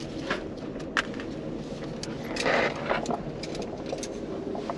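Steady low rumble of the Amtrak Auto Train running, heard from inside the sleeper-car roomette, with a few light clicks and a brief rustle partway through.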